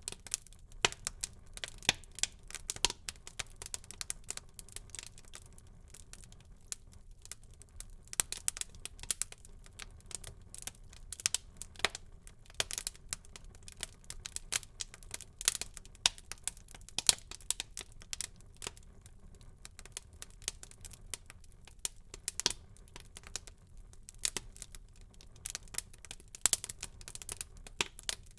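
Wood fire in a fireplace crackling: irregular sharp pops and snaps, a few loud ones, over a low steady rumble of the burning.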